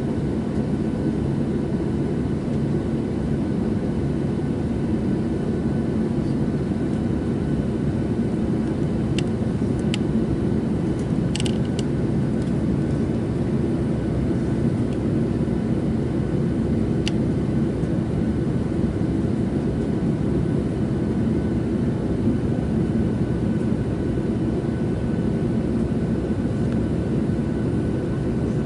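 Steady cabin roar of a Boeing 737-700 with its CFM56-7B turbofan engines running, heard from a window seat inside the cabin. A few light clicks come near the middle.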